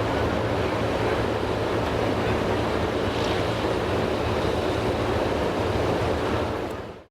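Semi truck's diesel engine running steadily, a low even drone mixed with wind noise on the microphone, cutting off suddenly near the end.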